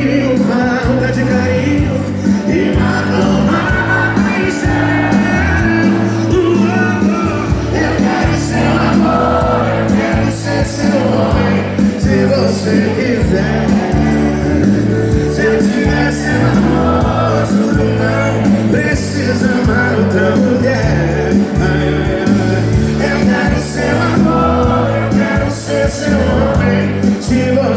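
Live sertanejo band playing loudly, with singing over a steady bass and drum beat.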